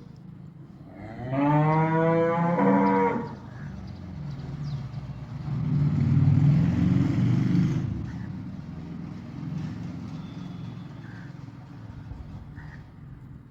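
A cow lowing once, a loud moo of about two seconds rising slightly in pitch, followed a few seconds later by a longer, low rumbling sound.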